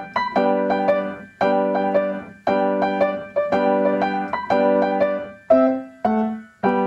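Piano playing a fast, lively vivace passage: short runs of quick notes about once a second, ending on three separate notes near the end.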